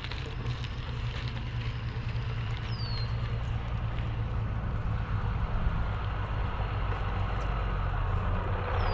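Wind buffeting on a bicycle-mounted GoPro microphone with tyre noise while riding along a paved trail, a steady low rumble. Two short high falling chirps sound about six seconds apart.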